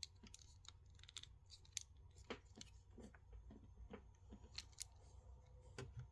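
Faint, irregular clicks and light taps of a plastic Transformers action figure's parts being handled and shifted during transformation.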